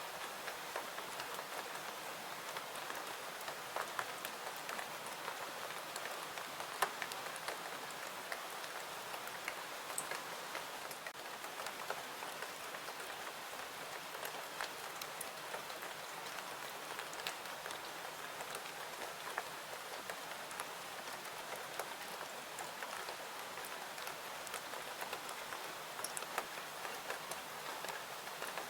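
Steady rain falling, an even hiss with scattered sharp ticks and crackles from a fireplace mixed in.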